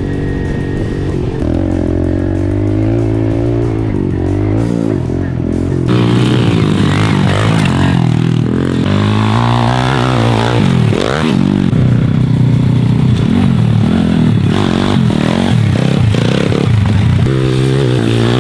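Motorcycle engine revving up and down repeatedly, with background music. It gets louder and brighter about six seconds in.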